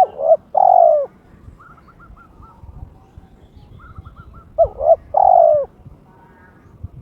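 Spotted dove (terkukur) cooing twice, each phrase a couple of short notes and then a longer drawn-out coo, with faint quick high chirps between the phrases. It is a male in breeding condition, calling to challenge a rival.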